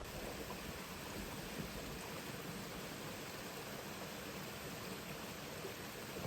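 Mountain stream water rushing steadily, an even unbroken flow.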